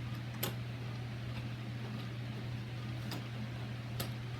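A few sharp, separate clicks of small metal lock hardware being handled and fitted, over a steady low hum.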